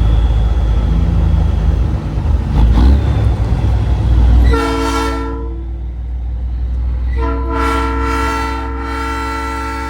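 Truck-mounted Nathan Airchime P3 train horn sounding a steady chord, first a short blast about halfway through, then a long sustained blast from near the three-quarter mark. Before the horn there is heavy truck engine and road rumble.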